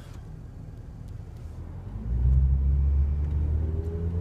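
Car engine and tyre rumble heard from inside the cabin while driving on a snowy road; about two seconds in it grows louder into a low, steady engine drone with a faint whine slowly rising in pitch as the car picks up speed.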